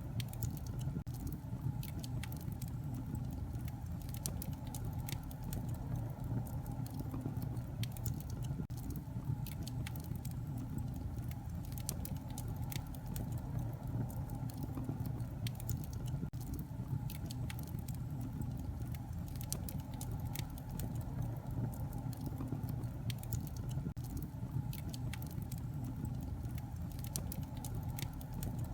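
Wood fire in a fireplace crackling: irregular sharp pops and snaps scattered over a steady low rumble.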